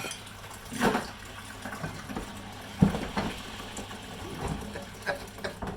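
Water pouring and splashing steadily, with two sharp knocks about one and three seconds in, the second louder.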